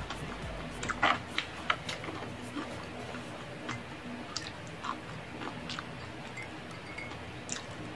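Close-miked chewing of crispy fried snack food, with irregular sharp crunches and mouth clicks, the loudest cluster just after one second in.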